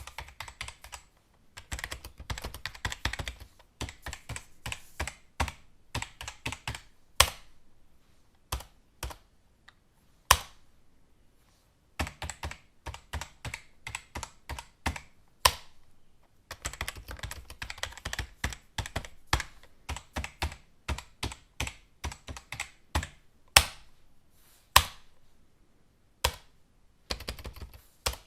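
Typing on a computer keyboard: quick runs of key clicks in bursts with short pauses between them, and now and then a single louder keystroke.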